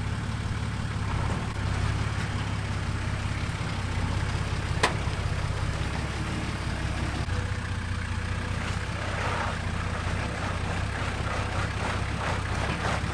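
Nissan Patrol 4WD's engine running steadily at low revs while it crawls through mud, with one sharp click about five seconds in.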